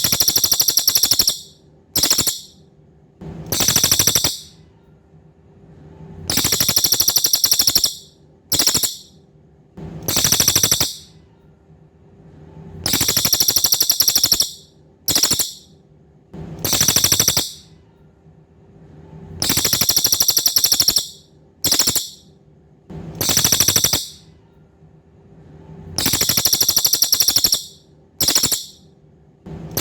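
Cililin songbird calling in high, rapid buzzing trills from a looped recording. The trills repeat in a fixed pattern of one long trill, one short and one medium, about every six and a half seconds.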